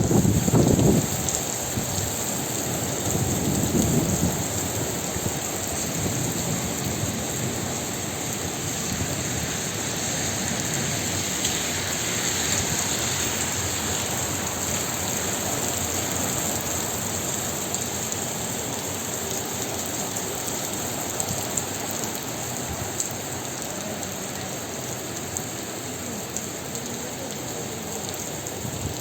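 Heavy rain falling steadily, with a few low rumbles in the first few seconds.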